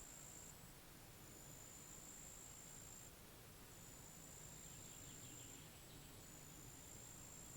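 Faint insect trilling: a steady high-pitched trill in phrases of about two seconds with short gaps between them, over a low hush of outdoor ambience, with a brief faint chirping about five seconds in.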